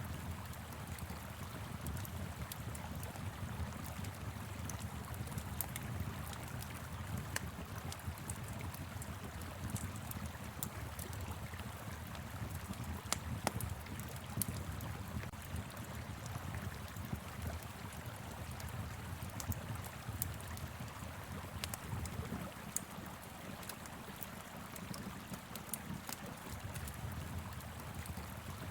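Fire pit crackling with scattered sharp pops over the steady rush of a flowing river and a low rumble of wind.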